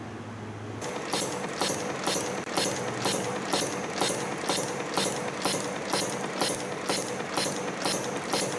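CNC wire-forming machine running, bending 0.7 mm stainless steel wire into flat rings: a steady hum, then about a second in a regular mechanical clatter starts, about two strokes a second, one forming cycle after another.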